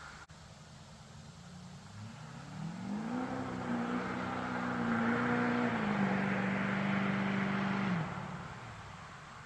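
2006 LBZ Duramax 6.6-litre turbo-diesel V8 running through a straight-piped 5-inch exhaust, accelerating hard. Its note climbs in pitch and grows louder about two to three seconds in, holds, steps down in pitch once around six seconds, then fades out near eight seconds.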